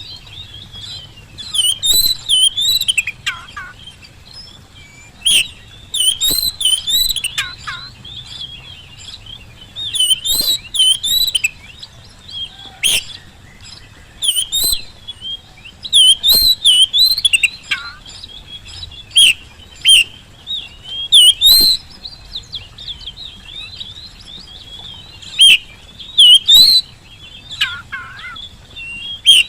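Oriental magpie-robin singing a varied, fast song of whistles and chirps in loud phrases of a second or two with short pauses between them, a few notes sweeping down low.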